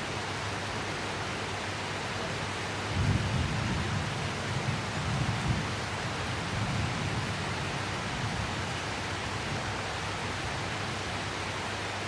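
Steady rain hissing, with a low roll of thunder that breaks in about three seconds in and rumbles on for a few seconds before fading.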